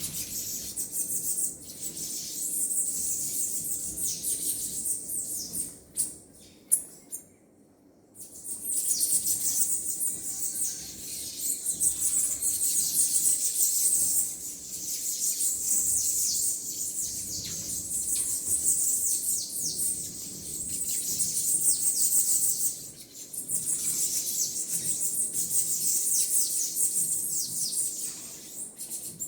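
A flock of small birds chirping together in a dense, high-pitched chatter of many quick overlapping calls, dropping out briefly about seven seconds in before resuming.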